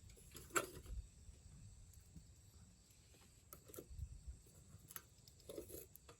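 Faint, scattered clicks and taps over near-silence, the loudest about half a second in.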